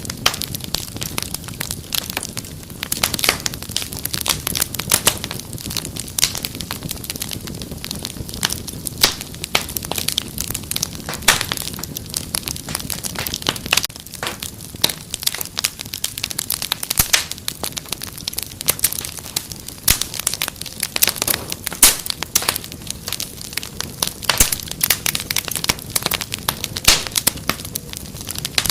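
Wood fire crackling steadily, with many sharp irregular pops and snaps over a low rumble of the flames.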